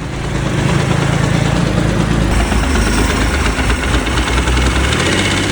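Freshly rebuilt motorcycle engine idling steadily after warming up, with an unidentified knock that appeared as it warmed.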